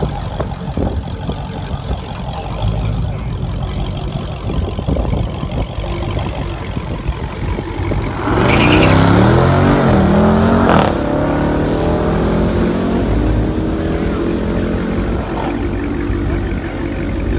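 A drag-racing car's engine running, then revving hard about eight seconds in, its pitch climbing for a couple of seconds before it drops off sharply. A steadier engine note follows.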